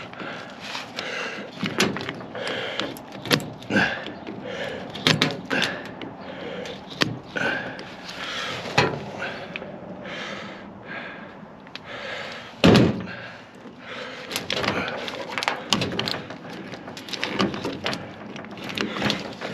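Irregular metal knocks, clunks and scraping as a microwave oven transformer is handled and its coil winding is scraped to check for copper under the coating. A heavier thud comes about two-thirds of the way through.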